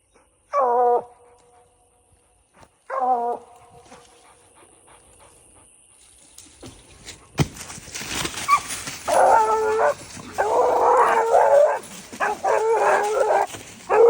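Coonhounds baying on the hunt: two short calls near the start, then, over a rustling in the background, a run of loud, repeated bawling barks in the second half.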